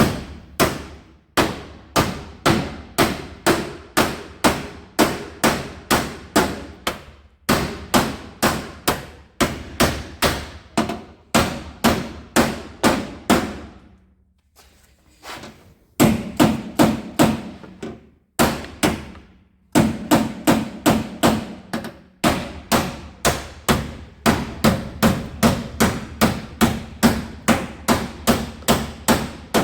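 Hammer striking a block of wood held against the edge of a car's dented rear quarter panel, knocking the sheet-metal lip back into a fold. Quick, even blows, about three a second, with a pause of about two seconds midway and a shorter one soon after.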